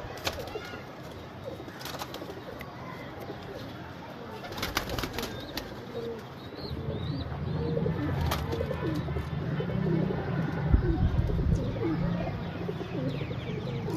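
Teddy pigeons cooing, the low cooing growing louder from about halfway through, with a few sharp taps in the first half.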